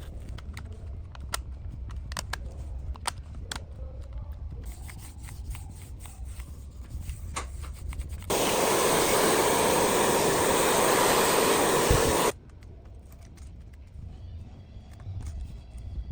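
Light clicks and taps of small parts being handled, then a steady spraying hiss that starts abruptly about eight seconds in and cuts off after about four seconds.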